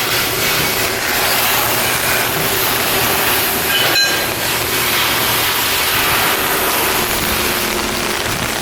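Steady rushing noise over a low hum, typical of shipyard work. About four seconds in comes a single sharp metallic clank that rings briefly.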